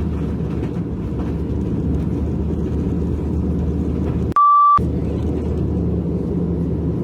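Steady low rumble of an aircraft in flight. A single clean high beep of about half a second breaks in near the middle, and the rumble drops out completely while it sounds.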